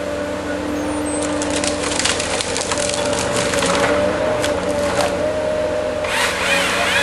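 Tree-felling harvester's engine running steadily while wood cracks and splinters in a rapid series of snaps, starting about a second in and easing off around five seconds. Near the end a wavering whine joins in.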